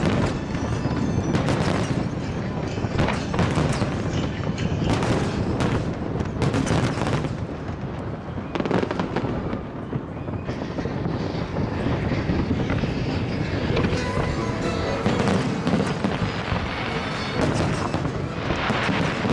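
Aerial fireworks going off in rapid, overlapping bursts, many a second at times, with music playing along.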